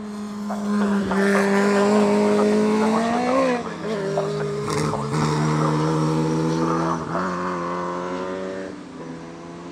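Formula Junior racing car engines going past at speed. The pitch climbs, drops sharply about three and a half seconds in as the revs fall, then steadies lower, and the sound fades near the end.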